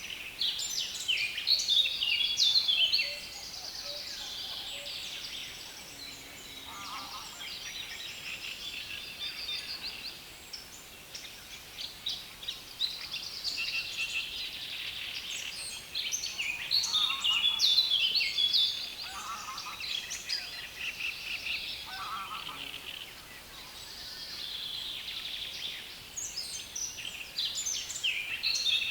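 Songbirds singing in a reedbed: a dense, continuous chatter of fast, scratchy song phrases that swells louder every several seconds. A few short lower calls break in here and there.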